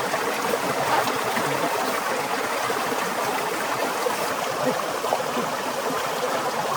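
Steady rushing of flowing water, an even wash of sound with no breaks.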